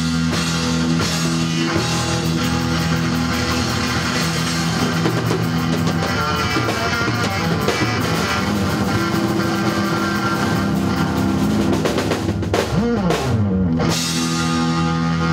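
Rock band playing, with a drum kit and guitars. Near the end a note slides down in pitch and the drums drop out for a moment before the band comes back in.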